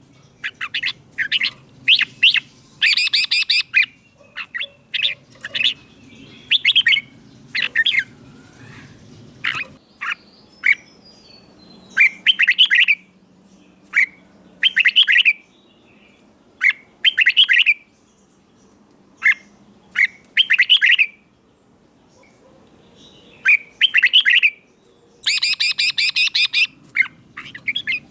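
Red-whiskered bulbul singing: short, loud, bubbly whistled phrases repeated every second or two, with a couple of brief pauses.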